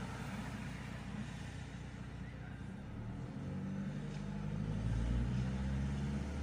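Diesel car engine of a VAG-group car idling, then revved to about 2000 rpm and held there, heard inside the cabin. The engine note rises and grows louder about four to five seconds in.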